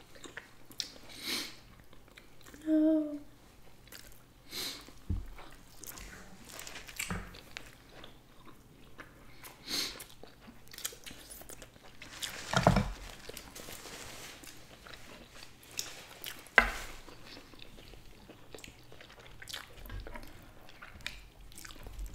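Close-miked wet chewing and biting of nigiri sushi, with lip smacks and small clicks. There is a short hummed "mm" about three seconds in, a louder knock about halfway through and a sharp click a few seconds after it.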